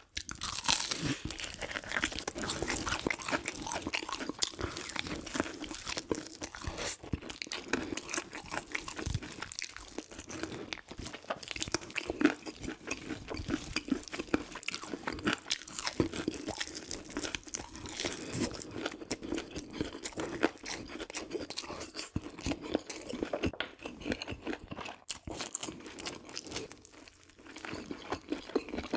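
A person chewing crunchy deep-fried food, a continuous run of crisp crunching bites.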